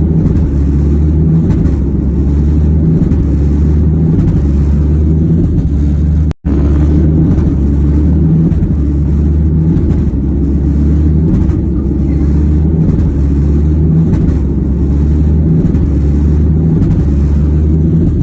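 Airliner jet engine running with a loud, steady low rumble, from an engine that has ingested a goose and is on fire. The sound breaks off for an instant about six seconds in.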